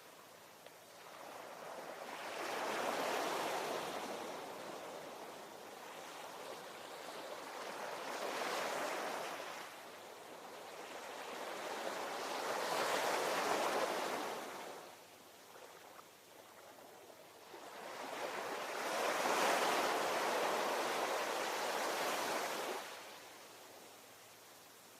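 Ocean waves breaking and washing in: four surges of surf that each swell and fade, with a quieter lull near the end.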